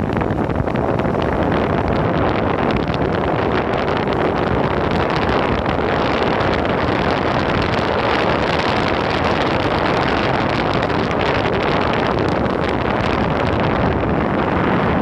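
Steady, loud wind noise buffeting a phone's microphone while riding fast on an electric skateboard.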